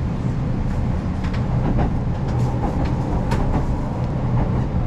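Kintetsu 'Tsudoi' electric tourist train running on the rails: a steady low rumble and hum with scattered light rattles and clicks.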